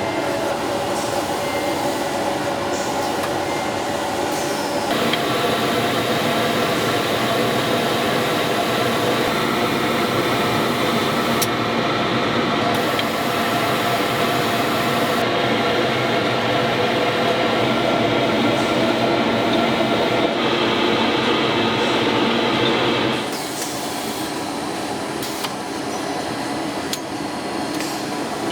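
Steady factory machinery noise: a continuous mechanical hum and whir with faint steady tones, changing abruptly about five seconds in and again near the end, where it gets a little quieter.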